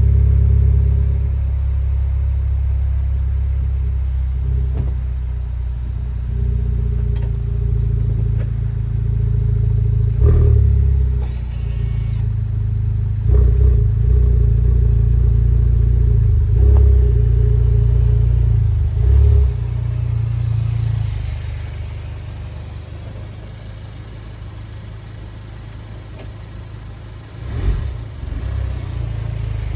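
2020 Honda Civic Type R's turbocharged 2.0-litre four-cylinder running at low revs through an HKS Legamax exhaust, a low steady drone that swells and dips with light throttle as the car creeps backward and forward. It gets quieter about two-thirds of the way through, with a brief louder blip near the end.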